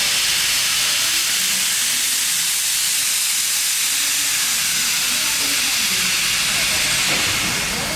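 Steady, loud hiss of steam escaping from a Victorian Railways K class steam locomotive.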